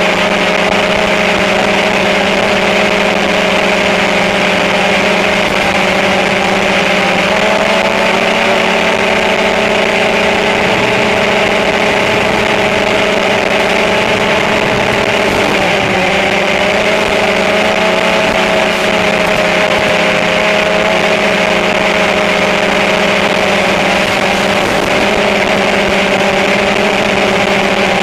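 Electric motors and propellers of a small remote-controlled aircraft humming steadily in flight, the pitch of the hum shifting slightly around the middle and again near the end.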